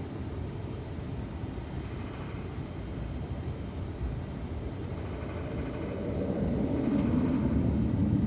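Cabin noise of an Airbus A350-900 taxiing: a steady low rumble from its Rolls-Royce Trent XWB engines and rolling wheels, growing louder about six seconds in.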